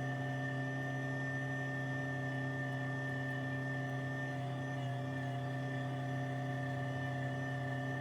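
Tractor engine running at a steady speed, an even hum with no change in pitch.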